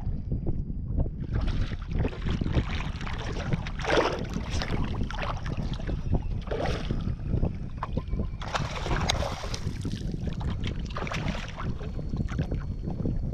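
Wind buffeting the microphone with a constant low rumble, over irregular surges of choppy water washing and slapping against a small skiff's hull.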